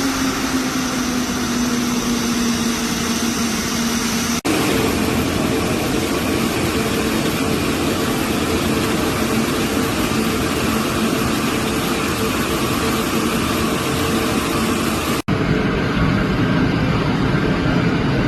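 Light piston-engine aircraft running with a steady engine-and-propeller drone, heard in three clips spliced together with abrupt cuts about four seconds in and near the end. The hum sits lower and drifts slightly down in the first clip, and steadies at a higher pitch after the first cut.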